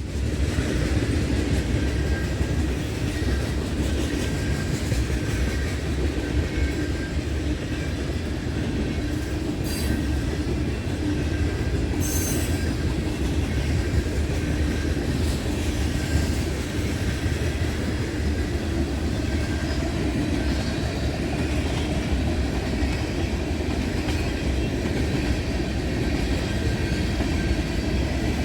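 Freight train cars rolling past: a steady rumble of wheels on rail with a faint high squeal from the wheels and two sharp clanks about ten and twelve seconds in.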